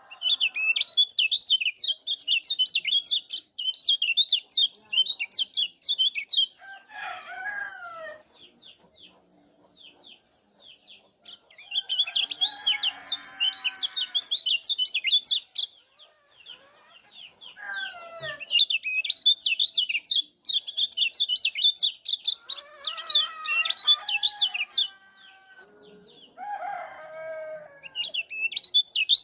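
Kecial kuning, a small white-eye, giving rapid high chattering 'ciak' calls in bursts of several seconds with short pauses between. Another bird's lower, falling calls come in between the bursts, several times.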